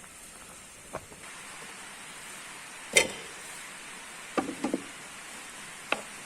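Steady rain hiss with a few sharp knocks of cookware: one about a second in, the loudest about three seconds in, a quick run of three around four and a half seconds, and one more near the end.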